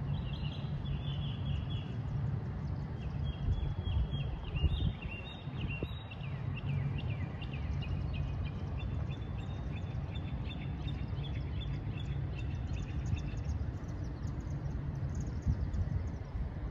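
Songbirds singing: runs of short, quick high chirps and trills, over a steady low outdoor rumble.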